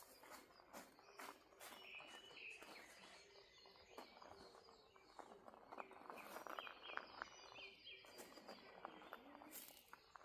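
Faint birdsong: several birds giving short chirps over and over, with a lower call repeating underneath, and footsteps on a path.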